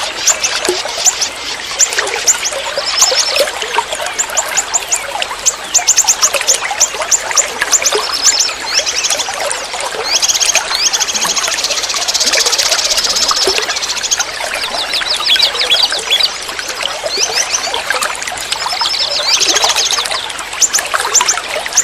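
Songbirds chattering in fast trains of short, high chirps and trills, over a steadily trickling forest stream.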